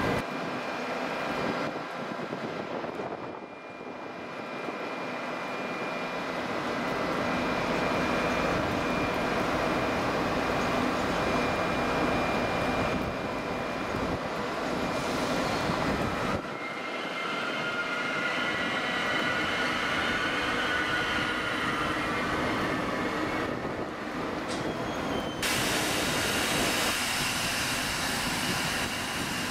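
Double-deck TGV high-speed train arriving: a steady rumble of wheels and traction equipment, with a thin whine for a few seconds past the middle.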